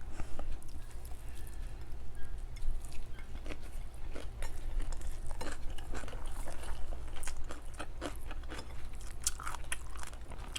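Close-miked chewing and crunching as a person eats fried dried milkfish (daing na bangus) with rice: many small crisp clicks and smacks at an uneven pace, over a steady low hum.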